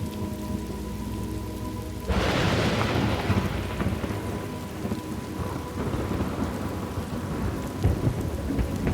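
Thunderstorm ambience: steady rain with low thunder rumbling. About two seconds in, a sudden loud thunderclap breaks out, then rolls and fades over several seconds into the rain.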